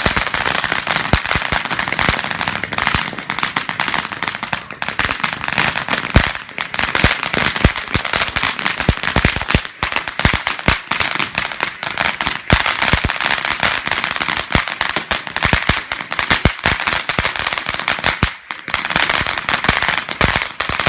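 Fireworks going off: a very loud, dense, unbroken crackle of rapid sharp bangs, with brief lulls about ten and eighteen seconds in.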